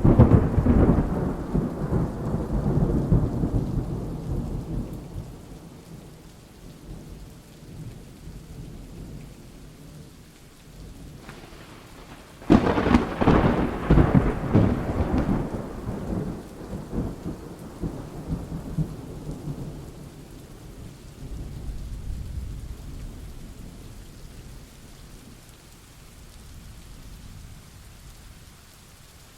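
Thunderstorm with steady rain. A thunderclap breaks at the start and rolls off over several seconds, a second sharp crack about twelve seconds in rumbles on, and fainter low rumbles follow later.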